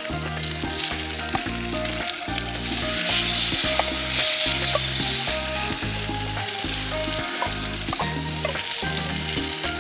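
Food sizzling steadily in a wrought-iron frying pan over a campfire, the sizzle swelling for a moment a few seconds in. Background music with low held notes plays underneath.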